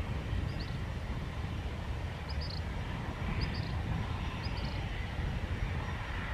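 Steady low outdoor rumble with four faint, short, high chirps about a second apart.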